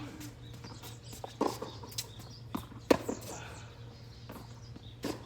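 Tennis rally: rackets striking the ball and the ball bouncing on the court, a run of sharp pops spaced roughly half a second to a second and a half apart, the loudest about three seconds in.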